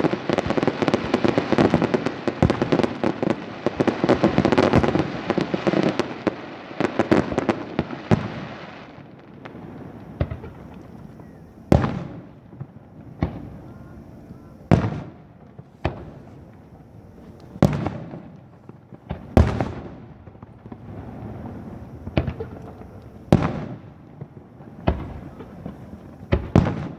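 Aerial fireworks bursting: a dense, continuous barrage of crackling bangs for about the first nine seconds, then single loud bangs every second or two, each trailing off.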